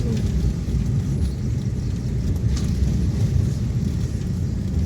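Steady low rumble of a moving vehicle, with a faint click about two and a half seconds in.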